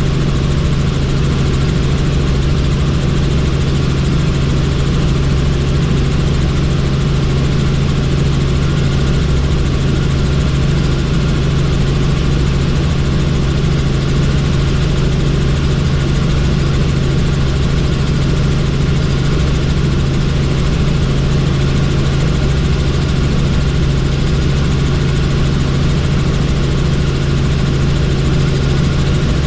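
Helicopter in flight: steady, loud rotor and engine noise with a constant low hum, unchanging throughout.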